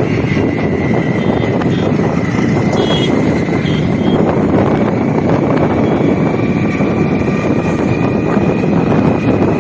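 Hero Honda Splendor single-cylinder motorcycle running steadily at riding speed, heavily masked by wind rushing over the microphone.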